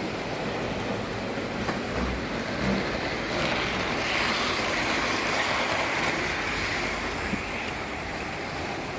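Model trains running on the layout's track: a steady whir of small electric motors and wheel rumble on the rails, growing a little brighter and louder in the middle as a train passes closer.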